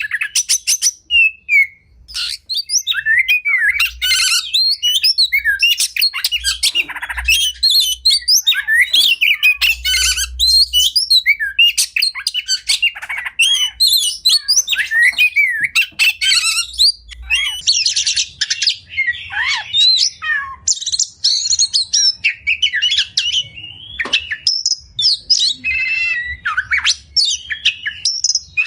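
Oriental magpie-robin (kacer) singing a continuous, varied song of rich whistles, fast repeated trills and harsh chattering notes, with barely a pause.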